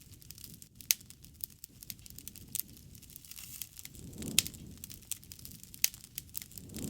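Bonfire crackling: a steady fine crackle of burning wood with about five sharp pops and a soft low rush of flame that swells twice.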